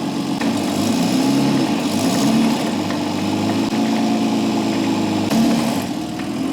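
Mercedes M104 straight-six engine idling, its speed rising and falling a little, with a brief louder burst of noise about five seconds in.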